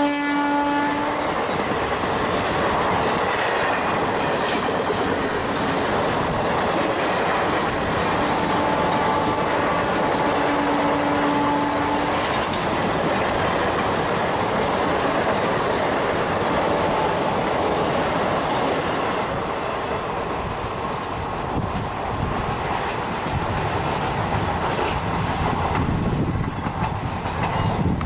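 Indian Railways passenger train, hauled by a diesel and an electric locomotive, running past with a steady clatter of wheels on rail joints. A locomotive horn cuts off about a second in, and a fainter held horn note sounds for about four seconds from about eight seconds in.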